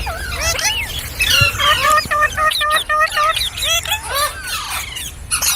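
Pet green parrot chirping and squawking in quick calls that sweep up and down in pitch, with a fast run of short repeated chirps, about six a second, around two to three seconds in.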